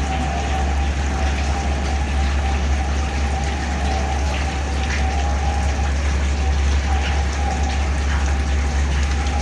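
Lube oil pouring and splashing over a large engine's crankshaft and connecting rods, fed by the electric pre-lube oil pump. Under it runs a steady low machinery hum with a faint steady whine.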